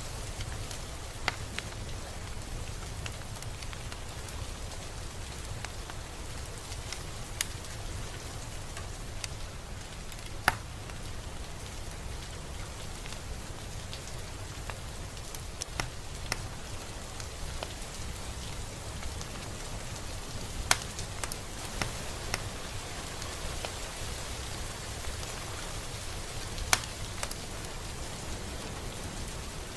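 Steady rain falling, with now and then a single sharp drop striking close by, loudest about ten seconds in and again near the end.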